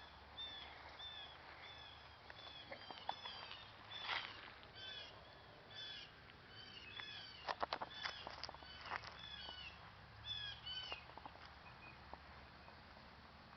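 Small birds chirping over and over in short, arched notes, with a few sharp clicks about four seconds in and again around the middle.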